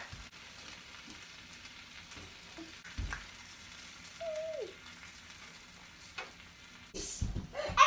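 Grilled cheese sandwiches sizzling faintly on an electric griddle, with a single knock about three seconds in.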